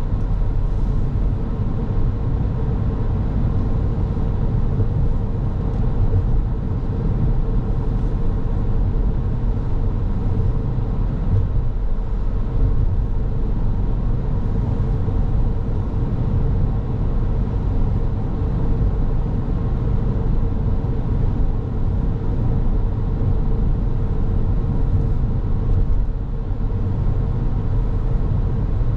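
A car on the move: steady low road and tyre rumble mixed with engine noise, under a faint constant hum.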